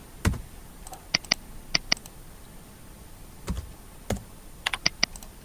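Scattered clicks of a computer keyboard and mouse: a few single keystrokes, several quick pairs of clicks, and a short run of four near the end.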